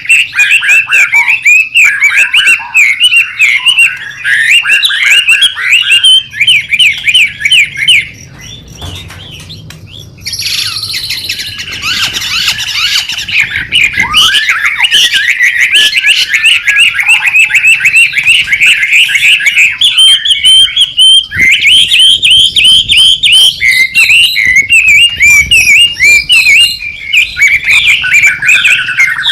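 White-rumped shama (murai batu) singing a fast, busy chattering song of rapid repeated chirps. The song drops away briefly about eight seconds in, comes back as a harsh rasping stretch, and then the rapid chirping resumes.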